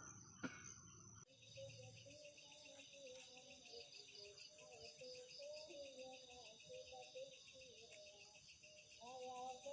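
Crickets chirring in a fast, even pulse, starting abruptly about a second in, with a faint wavering melody underneath.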